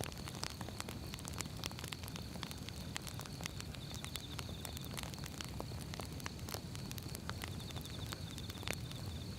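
Firewood burning: irregular sharp pops and snaps over a steady low rumble of the flames.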